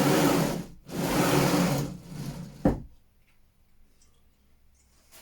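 Something sliding or rubbing back and forth in three long strokes of about a second each, followed by a single sharp knock.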